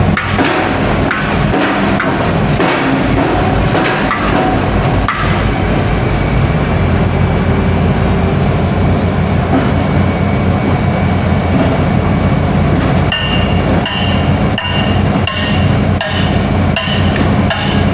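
Heavy diesel construction machinery running steadily, with metallic clanks and knocks. About two-thirds of the way through, a reversing alarm starts beeping about one and a half times a second.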